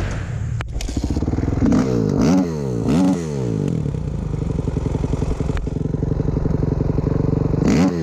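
A 2007 450R's single-cylinder four-stroke engine idling, blipped up sharply twice about two and three seconds in, each rev falling straight back to idle, then rising again near the end. A sharp click just under a second in.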